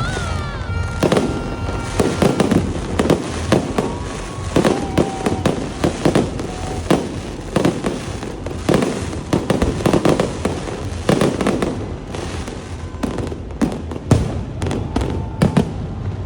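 Fireworks going off in a rapid, irregular barrage of loud bangs and crackles.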